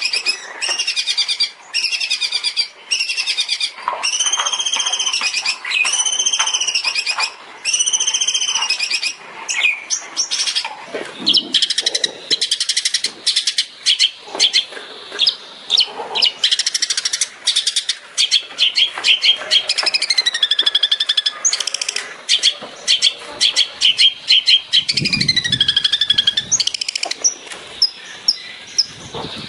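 Long-tailed shrike (cendet) singing loudly: for about nine seconds a string of repeated arching whistled notes, about one a second, then a fast, varied run of chirps, trills and falling glides.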